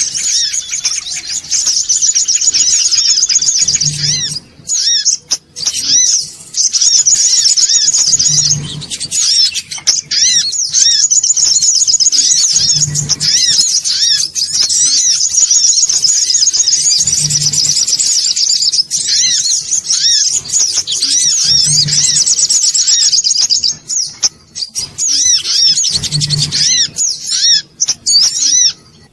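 Songon otong, a small yellow nectar-feeding bird, chattering in a rapid, high-pitched, nonstop stream, the busy lure call used to draw songon birds in, with a few short breaks. A soft low thump recurs about every four and a half seconds beneath it.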